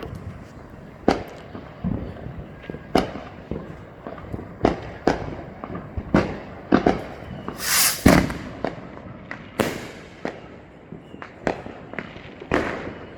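Consumer fireworks going off all around: a steady string of sharp bangs and pops at uneven intervals, some near and some further off, with two longer hissing bursts about eight and ten seconds in.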